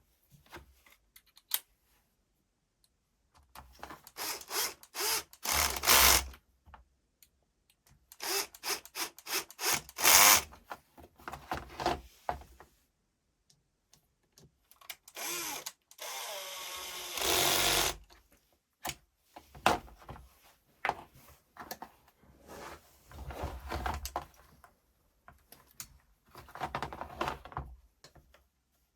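Makita cordless drill run in short bursts, with clicks and knocks of handling between, and one longer run of about two seconds past the middle.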